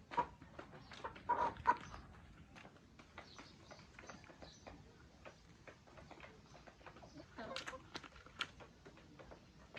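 Chickens clucking, a few louder calls standing out near the start and again about three-quarters of the way through, over a scatter of small clicks.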